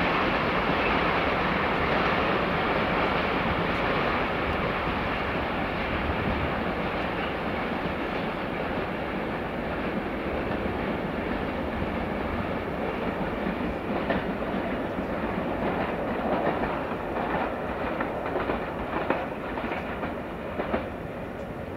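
Wagons of a loaded stone freight train rolling past: a steady rumble and clatter of steel wheels on the rails that slowly fades, with sharp clacks of wheels over rail joints coming thick in the second half.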